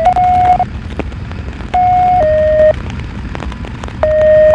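Two-tone sequential paging tones from a scanner radio, the kind used to alert fire stations before a dispatch. There are three pairs of steady beeps, each half-second tone stepping to a different pitch, over a steady low rumble.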